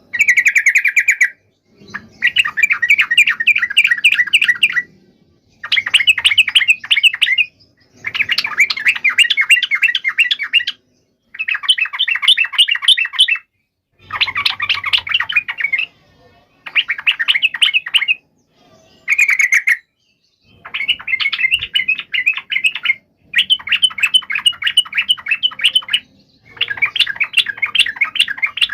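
Yellow-vented bulbul (trucukan) singing in a combative, fighting mood. It sings about a dozen quick, chattering phrases, each one to three seconds long, with brief pauses between them.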